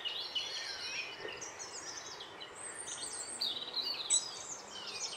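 Songbirds chirping: a busy, continuous stream of quick high chirps over a faint background hiss.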